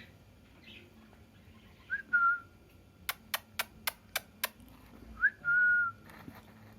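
Green parrot whistling: two whistled notes, each a quick upward flick settling onto a steady tone, the second held longer. Between them comes a quick run of six sharp clicks.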